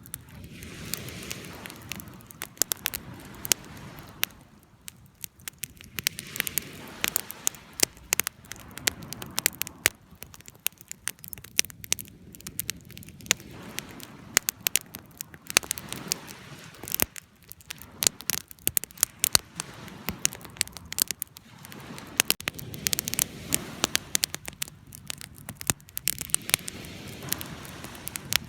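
Wood fire crackling, with frequent sharp pops and snaps over a soft hiss that swells and fades every few seconds.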